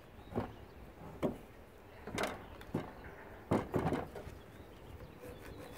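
A series of irregular knocks and clunks as the lawnmower's motor and tools are handled, the loudest a short cluster about three and a half seconds in.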